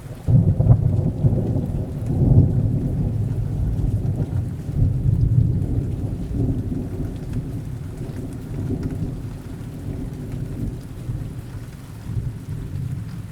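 Rolling thunder over steady rain. The low rumble swells up strongly in the first few seconds and slowly fades.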